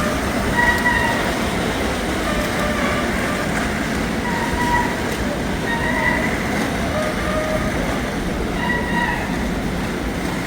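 A train running: a steady rumble and rattle of rail travel, with short faint high tones coming and going.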